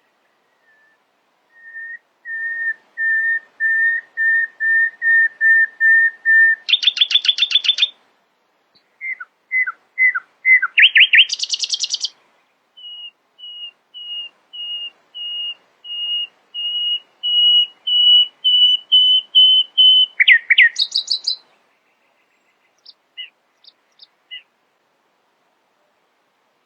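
Nightingale singing: a long series of repeated whistled notes that grows louder, breaking into a fast high trill, then a few slurred notes, another trill, and a second long swelling run of repeated whistles ending in a quick high flourish. A few faint single notes follow near the end.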